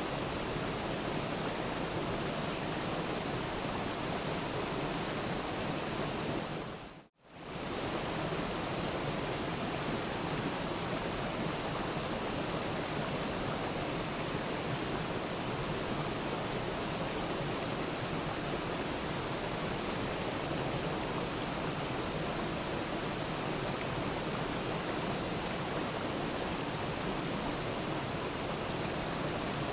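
Steady rushing of a waterfall, an even wash of falling water with no distinct splashes. About seven seconds in it dips briefly to silence and comes straight back.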